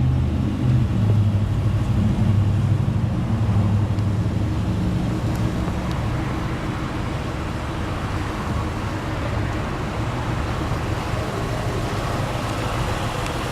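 2011 Ford Mustang GT's 5.0-litre V8 idling steadily with a low rumble, a little louder over the first six seconds or so.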